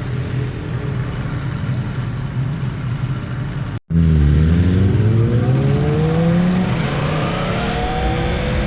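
Motorcycle engine running at a steady pitch on a racetrack. Just under four seconds in, the sound drops out for a moment. It comes back louder, its pitch dipping briefly and then climbing steadily as the bike accelerates.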